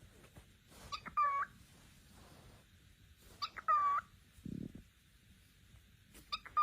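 Cockatiel calling three times, about two and a half seconds apart. Each is a short call that bends in pitch, led by a quick chirp or two, with a brief low sound after the second call.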